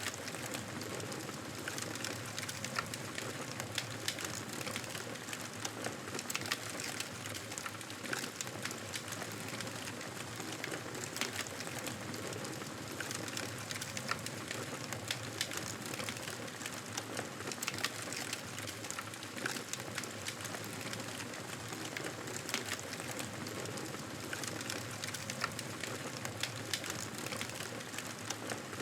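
Wood fire crackling in a fireplace: a steady hiss with frequent sharp pops and crackles scattered irregularly throughout.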